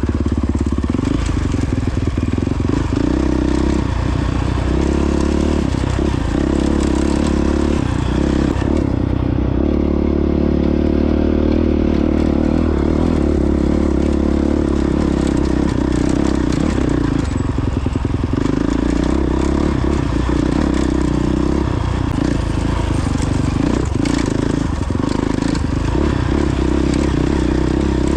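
A 2022 Honda CRF450X dirt bike's single-cylinder four-stroke engine running steadily under way, its note easing off and picking up again about a third of the way in.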